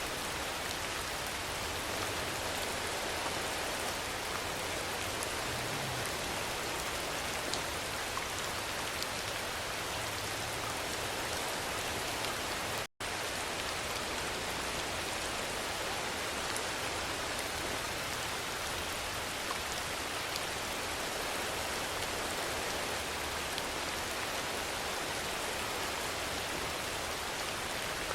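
Steady rainfall, a constant hiss of drops on surfaces. It cuts out for an instant about halfway through, then carries on unchanged.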